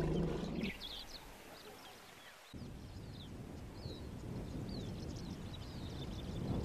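Small birds chirping in many short, quick notes over a low steady background rumble that steps up abruptly about two and a half seconds in. A low droning sound fades out within the first second.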